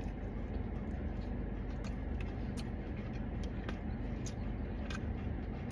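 Chewing a bite of crispy fried chicken sandwich: scattered short crunchy clicks over a steady low hum inside a car cabin.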